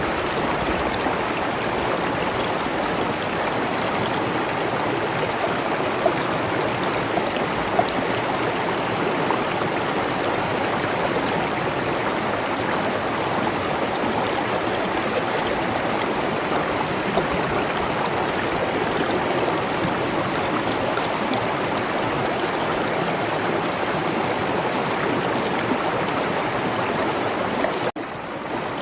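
Stream water flowing steadily, an even rushing and babbling, with a brief dip in level near the end.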